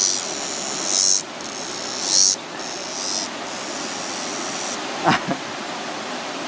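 A cicada buzzing close by in loud swells about once a second, then falling silent about two-thirds through. A sharp click follows soon after.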